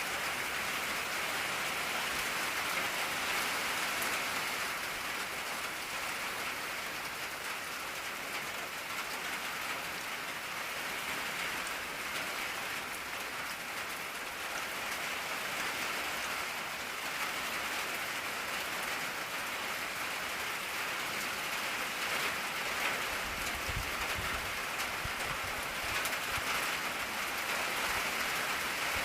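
Steady rain falling on an old tin roof, an even, dense patter of drops on the metal that keeps a constant level. A brief low rumble comes in about three-quarters of the way through.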